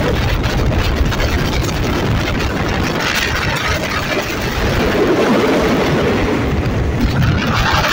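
Steady running of a train hauled by an Alsthom diesel-electric locomotive: the locomotive's engine and the wheels rumbling on the rails, heard from the coach coupled right behind it.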